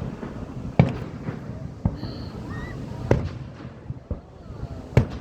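Fireworks display shells bursting in sharp bangs, about one a second with six in all, the loudest near the end.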